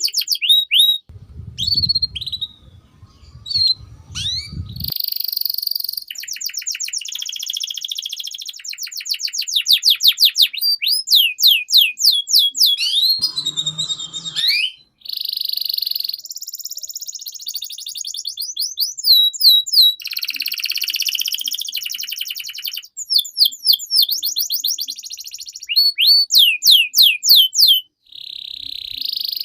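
Domestic canary singing a long, continuous song: fast trills of repeated high down-slurred notes alternating with buzzy rolls, phrase after phrase with only brief breaks. A low rumble sits under the song for a few seconds near the start.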